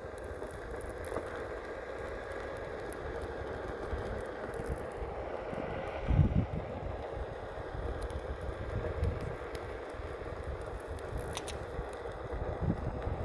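Onewheel electric board rolling along the street: steady road and motor noise mixed with wind on the phone's microphone, with a heavier wind buffet about six seconds in.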